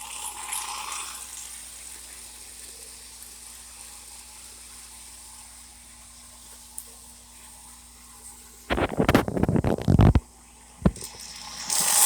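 O gauge model steam turbine locomotive and passenger cars running on three-rail track, with a steady faint hum. About nine seconds in comes a loud, irregular rattling rumble lasting about a second and a half, then a single click, and a loud hiss near the end.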